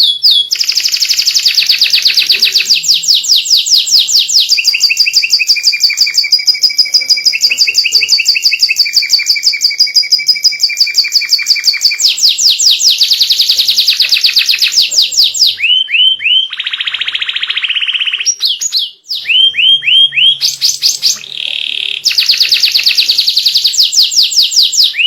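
White domestic canary in full song: long, loud trills of rapid repeated notes, switching between rolls of different pitch, with a few short downward-swooping notes near the middle and again toward the end.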